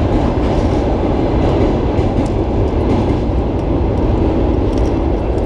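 Train crossing the steel truss railway bridge overhead: a loud, steady rumble of wheels on rails.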